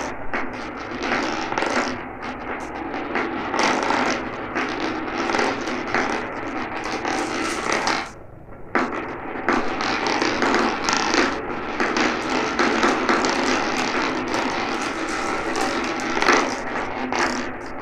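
Marbles rolling and clattering down a marble run track, a continuous rattle of many small clicks. It dips briefly about eight seconds in, then picks up again.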